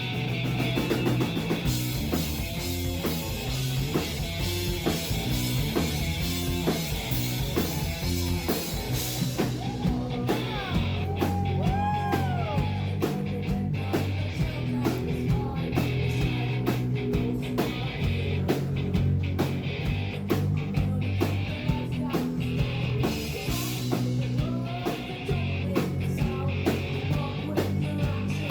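Live rock band heard through an audience member's recording: drums, bass and electric guitar, with the lead singing barely audible in the mix.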